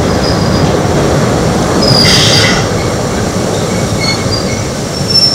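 Eizan Electric Railway nose-suspended-drive electric railcar running, heard from on board: a steady rumble of wheels on the rails, with brief high wheel squeals about two seconds in and again near the end.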